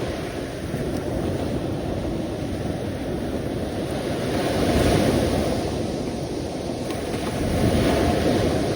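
Sea waves washing in, a continuous deep rush that swells about halfway through and again near the end.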